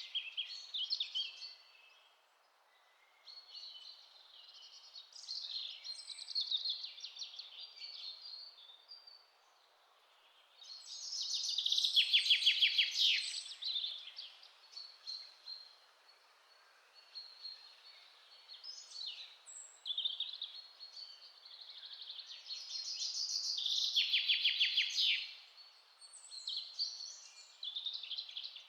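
Songbirds singing in a forest: varied chirps and fast trilled phrases, the loudest trills coming twice, once a little before halfway and once near the end, over a faint steady hiss.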